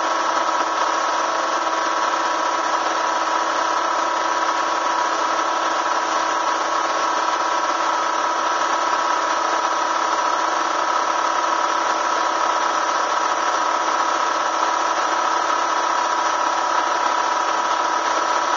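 Bee vacuum running steadily with an even, unchanging motor whine.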